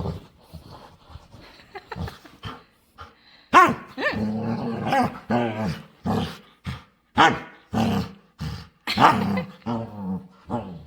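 Pet dog vocalizing in a run of loud, pitched, growly woofs and grumbles, starting about three and a half seconds in and coming several in a row.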